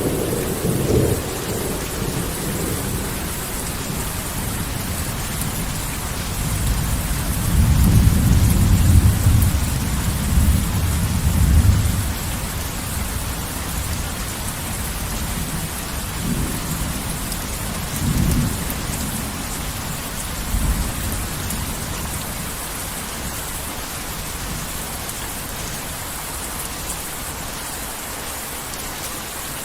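Heavy rain falling steadily, with a long rolling rumble of thunder about a quarter of the way in and a few shorter rumbles after it. The rain goes on alone, slightly quieter, near the end.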